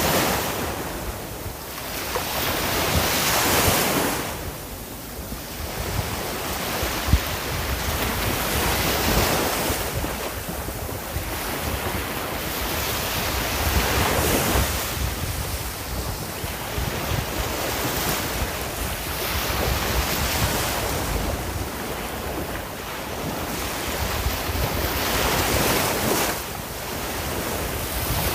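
Ocean waves breaking and washing on the shore, the surf swelling and ebbing every few seconds, with wind rushing over the microphone.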